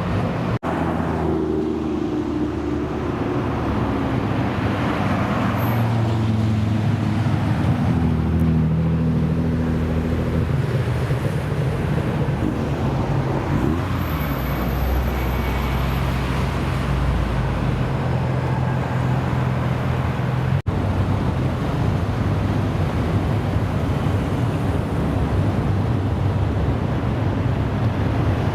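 Car engines running and accelerating, their pitch rising and falling as they rev and pull away, broken by two brief dropouts where one recording cuts to the next.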